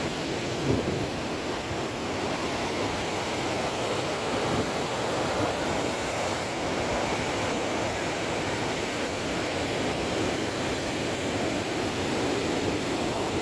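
Rough sea surf washing and breaking steadily, with wind buffeting the microphone.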